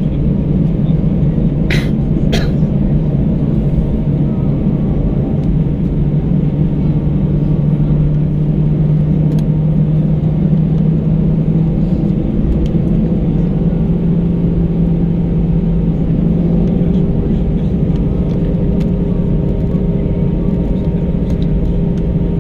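Airbus A319 cabin noise: a loud, steady rumble with the drone of the jet engines, its pitch creeping slightly higher, and a second steady tone joining about halfway through. Two sharp clicks sound about two seconds in.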